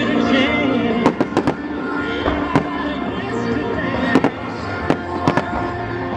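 Fireworks going off in a string of sharp bangs, about a dozen over several seconds, some in quick pairs and triplets, with music playing underneath.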